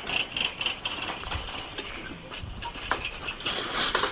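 Rapid clicking and clattering from handling the strapped beehive onto a cart, a busy run of small knocks and rattles.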